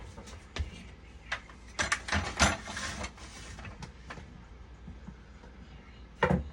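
Scattered clicks and knocks of hands handling tools and machine parts during repair work, with a brief cluster of clatter and scraping about two seconds in and a single knock near the end.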